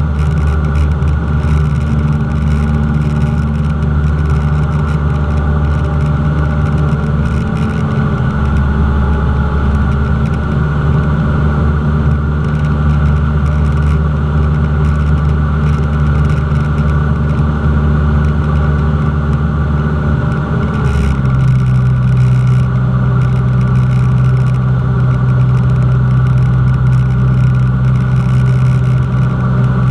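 Cessna 172's piston engine and propeller running steadily. About two-thirds of the way through, the engine note steps up to a higher pitch as the power setting changes, then holds.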